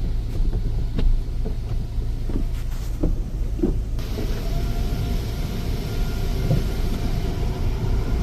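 Automatic car wash machinery heard from inside the car: a steady low rumble with scattered knocks. About four seconds in, a steady whine and hiss start abruptly.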